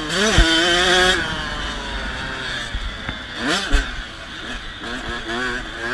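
KTM 85 SX two-stroke dirt bike engine revving hard, then backing off about a second in. It picks up again twice, with rising revs, as the rider works the throttle.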